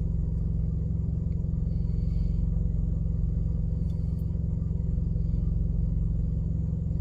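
A semi-truck's APU (auxiliary power unit), a small diesel generator, running with a steady, even low drone.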